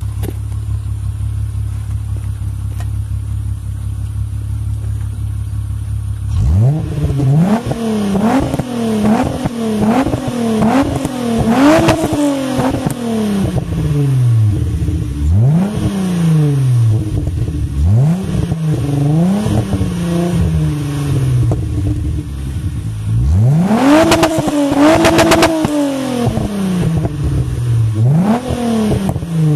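Volkswagen Golf Mk2's VR6 engine idling steadily through its exhaust, then revved in a string of quick throttle blips, each rising and falling back. About two-thirds of the way through, one rev is held high for a second or two before dropping.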